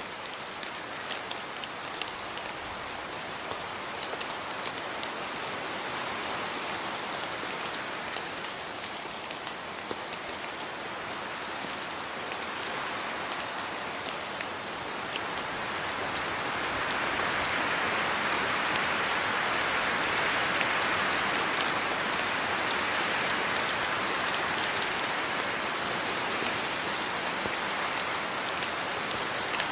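Steady rain falling and pattering on surfaces, with many individual drops ticking. The rain grows heavier about halfway through.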